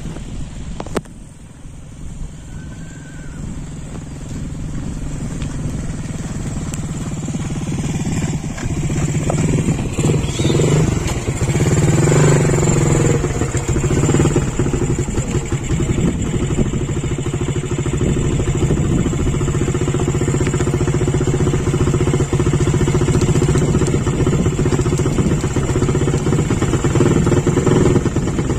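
An engine, most like a motorcycle's, running steadily. It grows louder over the first several seconds, then holds at a steady level.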